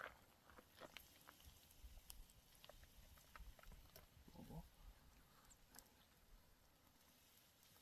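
Near silence: faint scattered clicks and taps over a low background rumble, with one brief low sound about four and a half seconds in.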